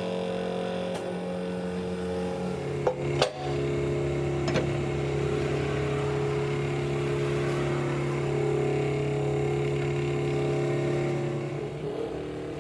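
A motor running steadily with a pitched hum that shifts down about two and a half seconds in, with a few sharp metallic knocks around three to four and a half seconds in.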